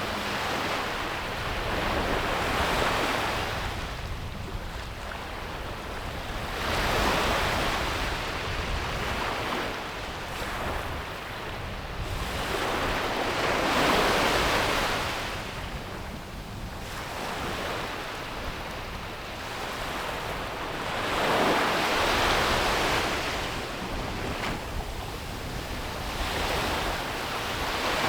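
Ocean waves breaking and washing up a beach. The surf swells and ebbs about five times, one swell every few seconds.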